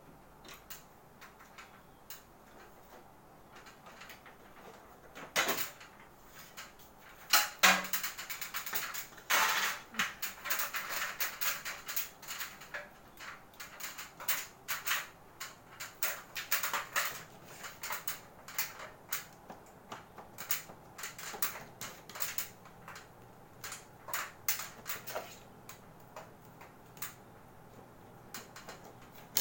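Irregular clicks, knocks and scrapes of an air conditioner's casing and panels being handled and pried apart. The sharpest knocks come between about five and ten seconds in, followed by a run of smaller clicks.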